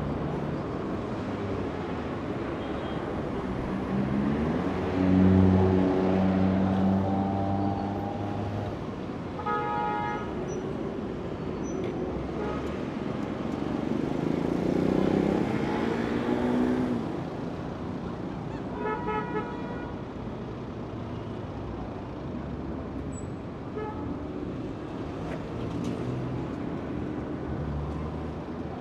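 Busy street traffic: steady road noise with heavy vehicle engines pulling away and passing. Two short horn toots sound, one about a third of the way in and one about two-thirds in.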